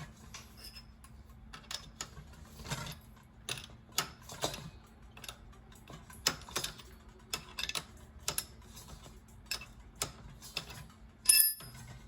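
Wrenches clicking and clinking irregularly on the fridge's water-line connector as it is loosened, with a louder metallic clank and brief ring near the end. A faint steady low hum runs underneath.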